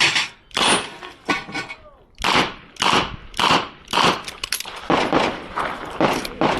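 Handgun fired in a steady string during a timed shooting stage: about a dozen shots, roughly two a second, each cracking sharply and echoing briefly.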